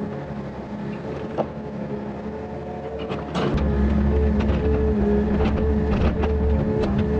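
Yanmar VIO50 mini excavator's diesel engine running with steady tones, with scattered clunks from the machine working. About three and a half seconds in it comes under load and gets louder and deeper.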